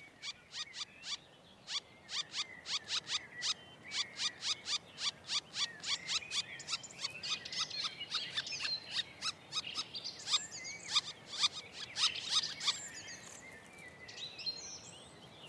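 Black woodpecker nestlings begging from the nest hole: a rapid, unbroken series of short calls, about three or four a second, thinning out near the end.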